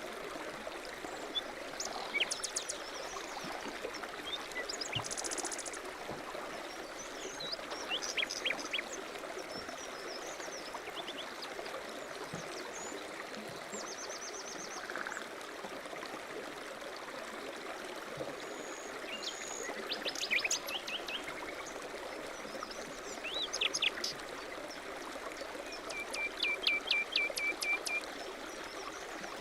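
A stream running steadily, with birds chirping and trilling now and then over it; near the end one bird gives a fast trill of about a dozen repeated notes.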